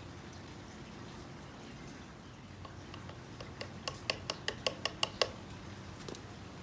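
A quick run of about ten sharp clicks or taps, roughly six a second and growing louder, from basket-weaving material being worked by hand, over a low steady hum.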